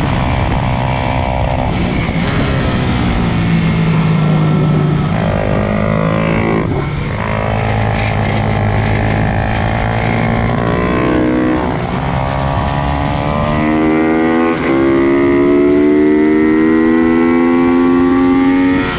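Several pit bike engines racing together, their pitch climbing as they rev up through the gears and dropping sharply at each shift.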